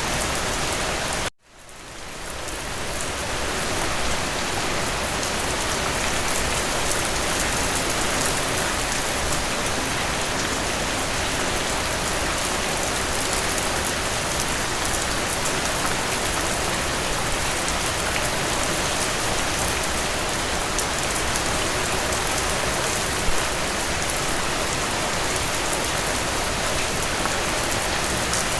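Steady rain falling on surfaces: a dense, even hiss of many drops. About a second in the sound cuts out abruptly, then fades back up to full over a couple of seconds.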